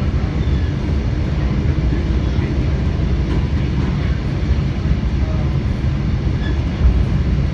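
Steady low rumble of a moving passenger train heard from inside the car, wheels rolling on the rails, with a few faint short squeaks now and then.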